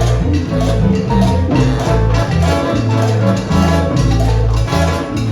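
Salsa band playing live, with a strong stepping bass line under busy percussion and pitched instruments.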